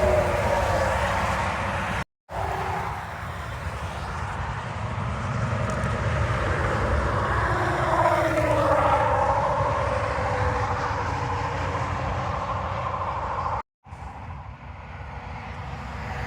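Semi trucks passing on an interstate highway: steady tyre and engine noise, with falling whines as the trucks go by, loudest about eight seconds in. The sound cuts out completely twice for a moment, about two seconds in and near the end.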